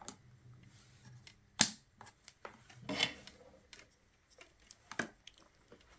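Scattered clicks and taps of tools and parts being handled on an electronics workbench: a sharp click about a second and a half in, a short rustling scrape around three seconds, and another click near five seconds.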